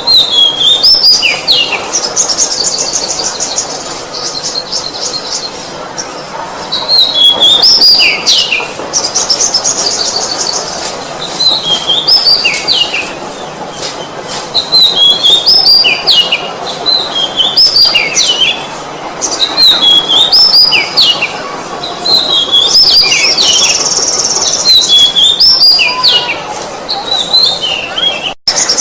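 Oriental magpie-robin (kacer) singing: repeated phrases of clear whistled notes that slide downward, alternating with fast, high rattling trills, every couple of seconds. The sound cuts out briefly near the end.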